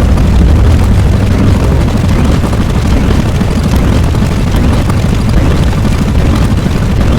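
Loud, continuous low rumble, a sound effect of the explosion or eruption kind, steady throughout.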